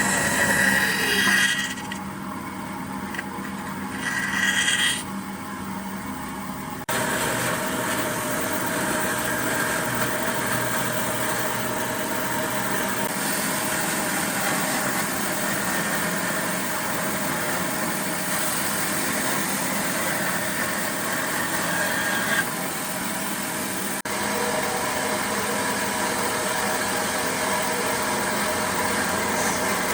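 A motor running steadily with a hum, changing abruptly a few times, about 2, 7 and 24 seconds in.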